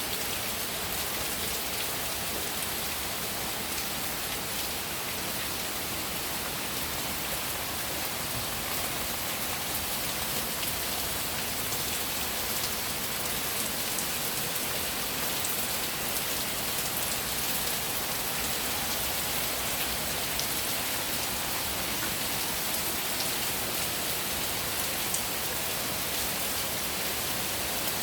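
Steady rain falling, an even hiss with the occasional sharper drop tick.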